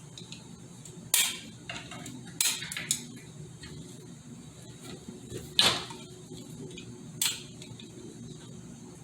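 Small metal transmission parts clinking and knocking against each other and a hard surface as they are handled: a few separate sharp clinks, the loudest about halfway through, over a faint steady hum.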